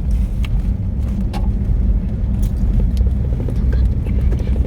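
Steady low rumble of a truck driving along a road, heard from inside the cab, with a few light clicks or rattles over it.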